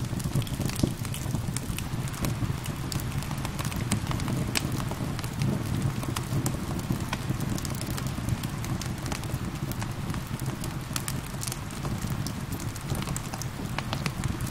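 Wood fire crackling with frequent sharp pops over steady rain falling.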